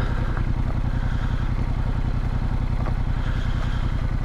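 Yamaha MT-07's parallel-twin engine running steadily at low revs, its firing pulses even.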